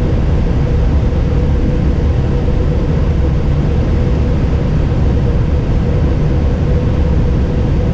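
Steady low rumble of an Airbus airliner heard from inside the flight deck while taxiing, with a faint steady whine over it.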